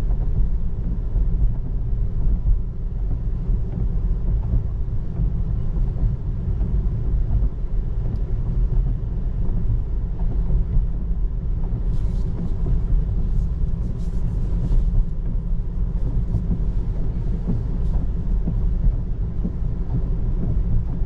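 Steady low road and tyre rumble heard inside the cabin of a 2024 Tesla Model 3 on the move in the rain, with no engine note. A few faint, brief hisses come about twelve to fifteen seconds in.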